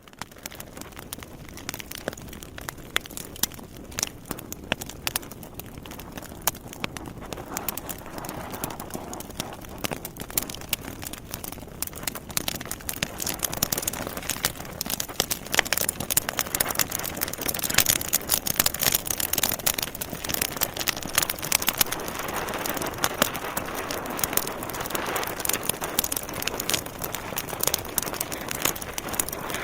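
Logs burning in a fireplace: a dense, irregular crackling and popping over a steady hiss of the fire. The crackling fades in at the start and grows busier and louder from about twelve seconds in.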